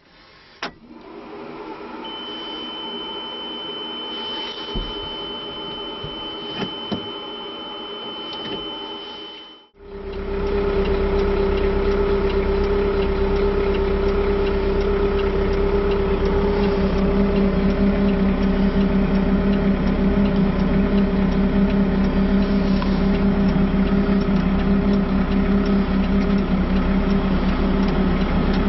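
A steady high-pitched warning tone sounds over a faint hum for several seconds. It cuts off about ten seconds in, when the JCB 515-40's engine starts and then runs steadily at idle for the rest.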